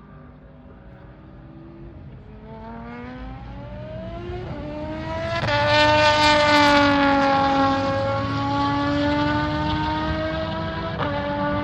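Aston Martin V12 Vantage GT3 race car's V12 engine at full throttle as the car approaches and passes. The note climbs in pitch and grows louder, with a sudden pitch step about four and a half seconds in and another near the end, as at gear changes. It is loudest about six seconds in, and the pitch sags slightly as the car goes by.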